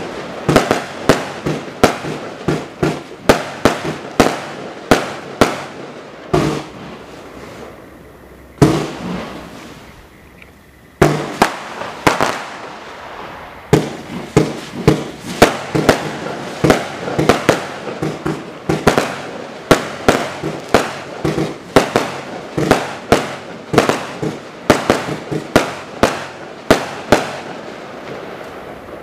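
A 150-shot compound fireworks cake with 0.8 to 1 inch tubes firing in quick succession: sharp bangs about two or three a second. About a third of the way through, the firing thins out to a few separate bangs for several seconds, then the rapid bangs resume.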